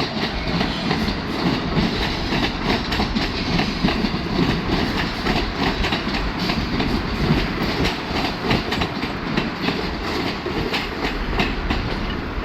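Amtrak Southwest Chief passenger train rolling past, a steady rumble with wheels clicking over the rail joints.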